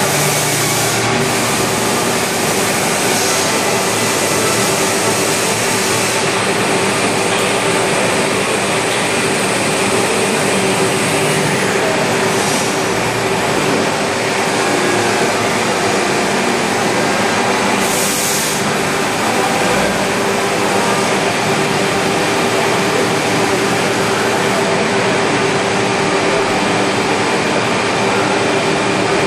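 Routech Chronos NT 5-axis CNC router running, its spindle giving a steady whine over a continuous machining and extraction noise, with a few brief hissy flares.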